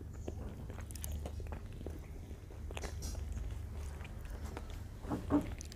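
People chewing and biting pieces of atta pinni (flour-and-khoya sweet balls), with faint scattered clicks over a steady low hum; a brief voice sound near the end.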